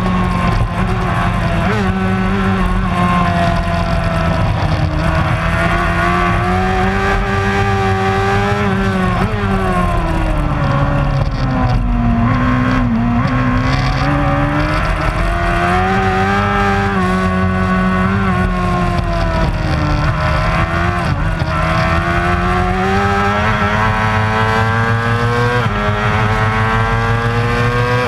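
Superbike racing motorcycle engine running hard throughout. Its pitch climbs under acceleration, sinks for a few seconds about a third of the way in as the bike slows, then climbs again through gear changes, with a steady rise near the end.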